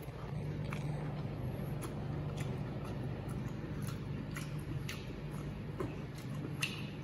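A person chewing a mouthful of crisp tripe with the mouth closed: irregular wet smacks and clicks over a steady low hum.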